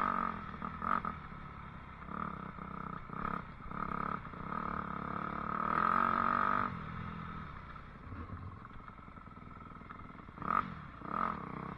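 Dirt bike engine running and revving, its pitch rising and falling in surges, then easing off after about seven seconds with one more short burst of throttle near the end.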